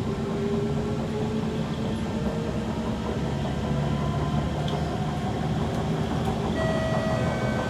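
Kawasaki C151 metro train running, heard from inside the carriage: a steady rumble with a whine from the noisy traction motors that rises slowly as the train gathers speed. About six and a half seconds in, new higher whine tones join.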